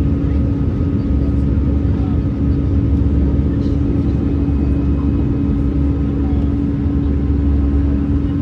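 Cabin noise inside an Airbus A320-214 with CFM56-5B engines in flight: a steady deep rumble of engines and airflow with a constant hum over it, unchanging throughout.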